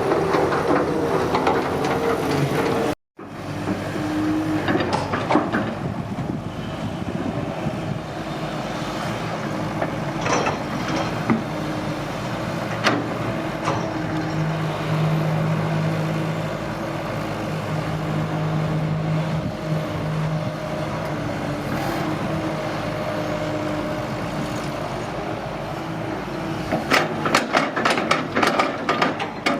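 Heavy diesel machinery running steadily, with occasional sharp clanks and a quick run of rattling clanks near the end. The sound cuts out briefly about three seconds in.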